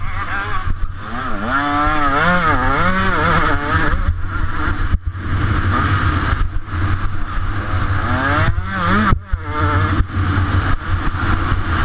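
125cc two-stroke motocross bike engine revving hard under race throttle, its pitch climbing and falling repeatedly, with the throttle chopped briefly about five seconds in and again about nine seconds in.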